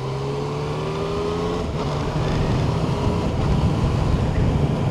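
Yamaha Tracer 900's three-cylinder engine accelerating. Its note rises for about a second and a half, drops at a gear change, then pulls on louder.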